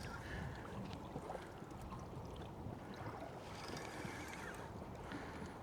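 Faint water lapping and gurgling against the hull of a small drifting boat, with a few faint ticks.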